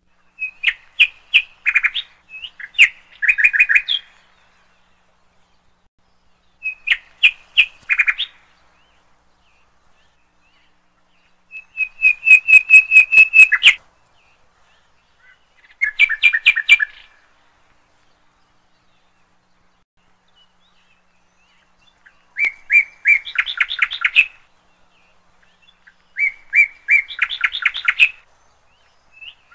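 Bird song: six phrases of quick, rapidly repeated chirping notes, each a second or few long, with silence between them.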